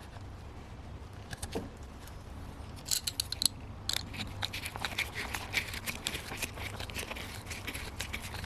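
Irregular metallic clicks and rattles of hand tools working on an engine-bay hose clamp. They are sparse at first and become a quick, dense clatter from about three seconds in, over a low steady hum.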